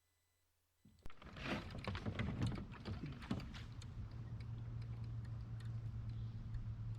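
A quick run of sharp clicks and knocks starting about a second in, then a steady low hum, from handling noise on a fishing kayak during a fish fight.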